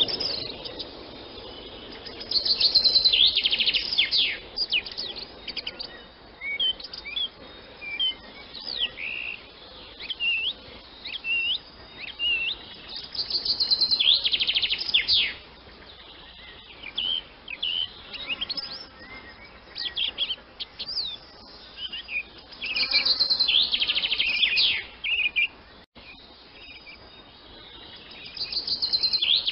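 Swallow twittering: a run of quick chirps and short gliding notes, broken every ten seconds or so by a louder buzzy rattling trill lasting a second or two.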